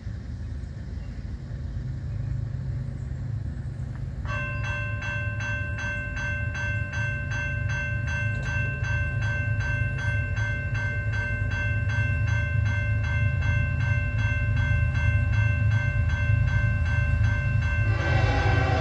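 CSX freight train approaching, its low diesel rumble growing steadily louder. About four seconds in, a bell starts ringing in quick, even strokes. Near the end the locomotive's horn begins to sound.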